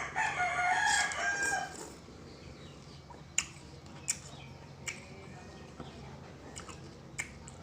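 A rooster crowing once, a call of nearly two seconds at the start. It is followed by a few scattered sharp clicks.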